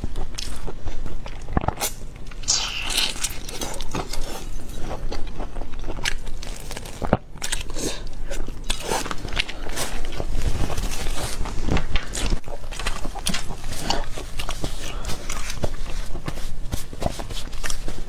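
Close-miked eating of seafood: steady chewing with many short crunches and clicks of shell, and wet mouth sounds.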